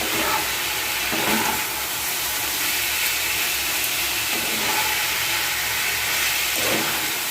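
Chicken in a yogurt and spice masala sizzling in a pan on a gas stove: a steady hiss as its liquid cooks down.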